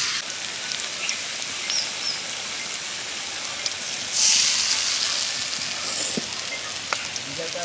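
Pumpkin-flower fritters deep-frying in hot oil: a steady sizzle that starts suddenly and swells louder for about a second midway.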